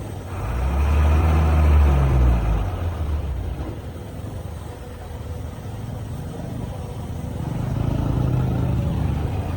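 Heavy diesel engine of earthmoving machinery running, swelling louder in the first couple of seconds, easing off, then building again near the end.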